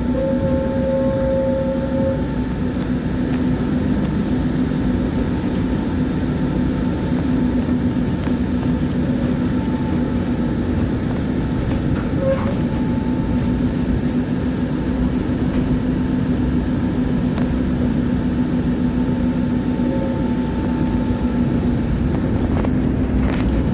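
Tram running along the track at a steady speed, heard from on board: a constant rumble with a steady motor hum holding one pitch, and a faint click or two.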